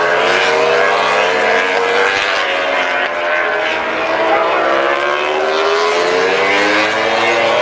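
Several motorcycle engines running at once, their pitches rising and falling as they rev, forming a continuous loud drone.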